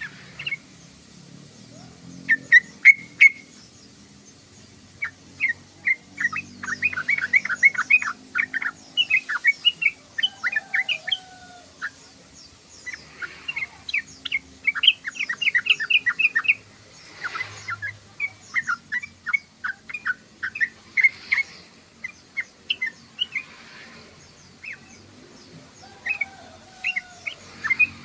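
Yellow-vented bulbul singing: bubbly phrases of rapid chirps, one to three seconds each, repeated with short pauses between them.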